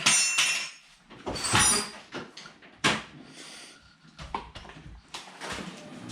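A metallic jingle and clatter, then more clattering and a sharp click about three seconds in, with a faint low rumble beginning in the second half.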